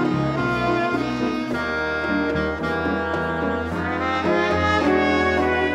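Live Latin dance band with a horn section playing the instrumental introduction of a slow bolero, in held chords before the vocal comes in.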